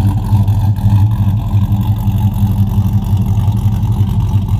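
2007 Chevrolet Avalanche's V8 engine idling steadily with a loping beat.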